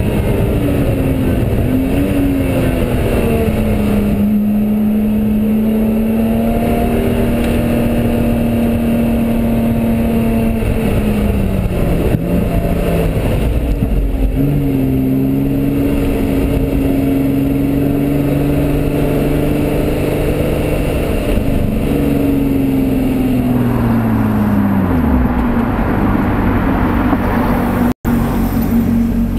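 Lotus Exige V6's supercharged 3.5-litre V6 engine heard from inside the cabin at speed on track. Its note holds steady for long stretches, dips briefly about twelve seconds in, and falls away near the end as the car slows.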